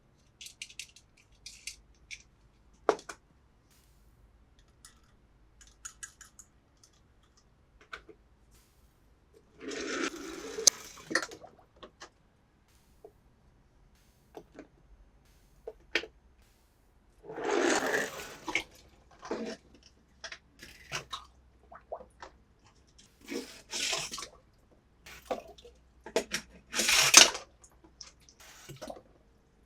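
Toy cars and their packaging being handled: scattered light clicks and taps, with four short rustling or splashing bursts, the loudest near the end.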